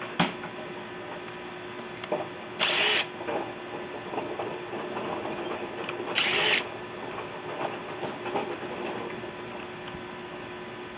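Two short bursts of a power drill, each under half a second and about three and a half seconds apart, backing out screws while a microwave is taken apart.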